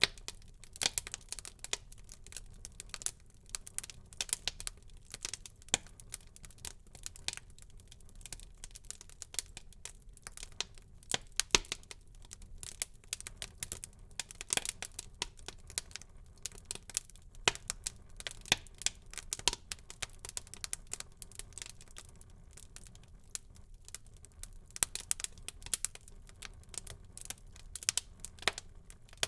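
Wood fire burning in a fireplace, crackling with irregular sharp snaps and pops over a faint low rumble, a few pops standing out louder.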